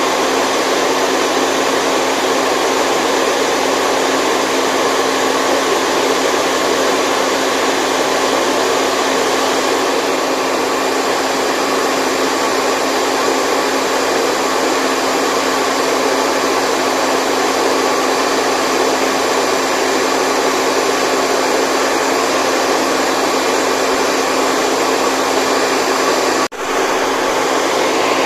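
Steady, loud white noise with a faint hum running through it. It drops out for a moment near the end, then comes back at full level.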